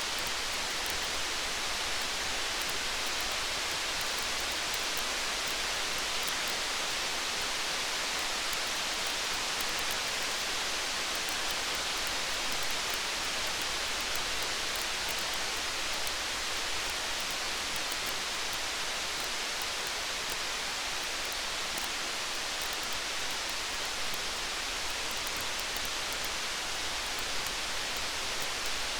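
Steady, even rain hiss with no let-up, sprinkled with faint tiny ticks.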